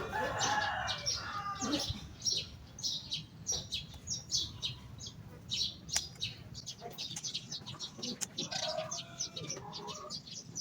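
Small birds chirping: many short, quick high chirps overlapping all through. A lower pitched call or voice-like sound comes in over the first two seconds and again about eight seconds in.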